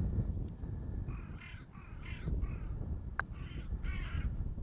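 A large bird calling: about five harsh caws in quick succession, over a low rumble. A single sharp click comes about three seconds in.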